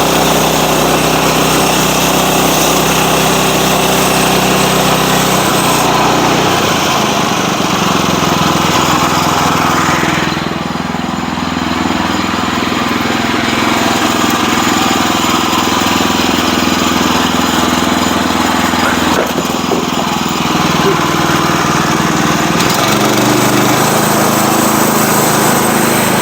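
Sawmill engine running steadily. Its pitch drops about a quarter of the way in, and its tone shifts again a few times after that.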